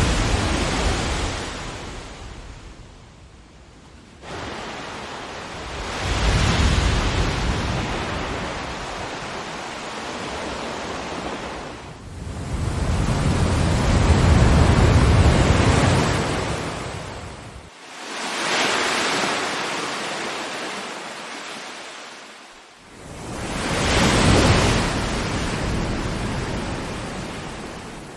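Ocean waves breaking and washing up the shore in about five surges, each rising to a peak and fading away over several seconds. A few of the surges start abruptly.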